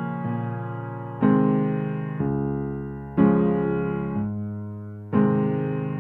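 Slow, soft piano-like keyboard music: sustained chords struck about every two seconds, each fading away, with a softer note or two between.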